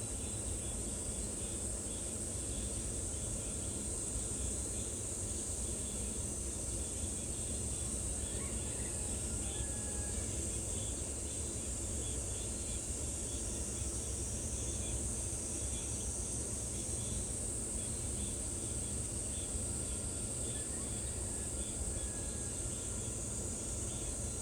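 A steady, high-pitched insect chorus, with faint quick ticking in the background and a steady low rushing noise beneath it.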